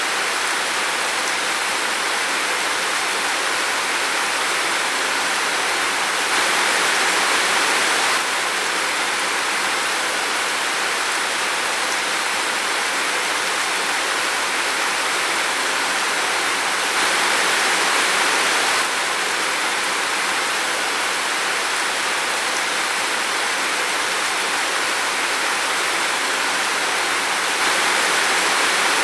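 Steady rain falling in a forest, an even hiss that swells slightly for a couple of seconds about every ten seconds.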